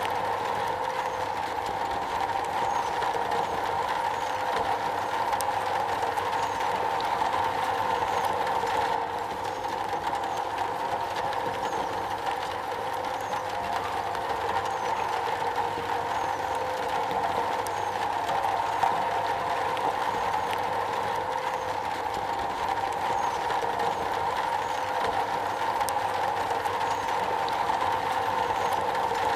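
Steady heavy rain falling on a metal roof, a dense even patter with no breaks, dipping slightly about nine seconds in.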